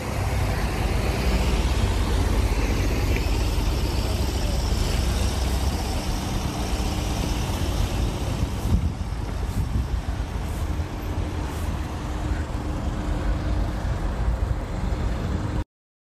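Steady low rumble of car and road noise, which cuts off suddenly near the end.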